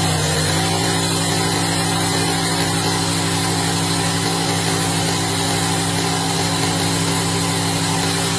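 An engine or motor running steadily at constant speed, with an even hum.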